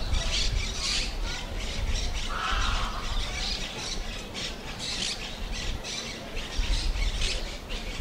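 A flock of birds calling in quick succession, many short repeated calls with a longer lower call about two and a half seconds in, over a low steady rumble.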